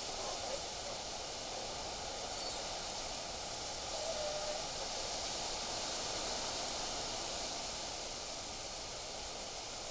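Steady rush of wind through trees and over the ground, with a couple of faint short chirps about half a second and four seconds in.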